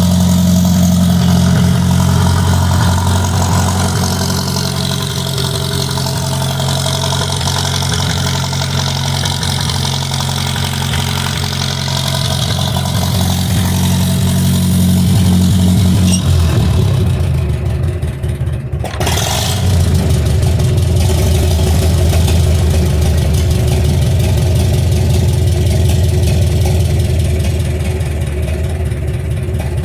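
Farmall M tractor's four-cylinder gasoline engine idling steadily through a 5-inch straight-piped stack. The engine still has an intake leak at the manifold gasket. The sound shifts about halfway through and drops out briefly a couple of seconds later.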